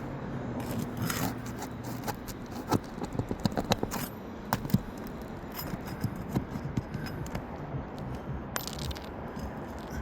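Old three-tab asphalt shingle being pried up with a flat bar: a run of sharp cracks and scraping as the tab's seal strip breaks loose, thickest in the first half.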